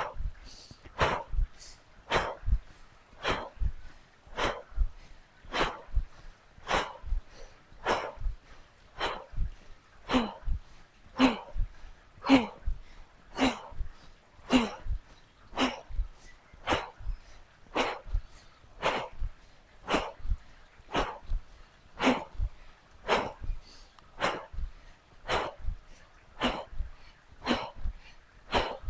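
A person's short, forceful exhales, about one a second, in a steady rhythm with repeated jumps. A few in the middle come out as brief voiced grunts.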